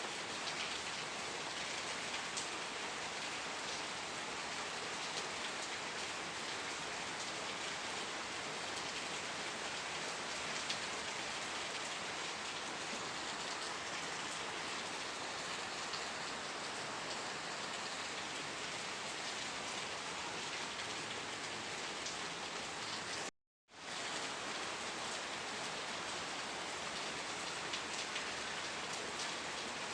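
Steady rain falling, an even hiss with scattered individual drop ticks. The sound cuts out completely for a fraction of a second about three-quarters of the way through, then resumes.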